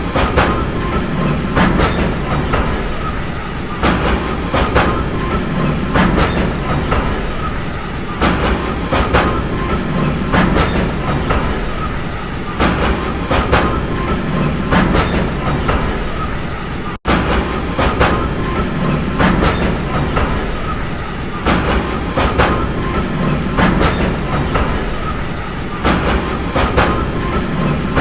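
Train running along the track: a steady rumble with the clickety-clack of wheels over rail joints, clicks coming in pairs every second or two. A very brief drop-out about 17 seconds in.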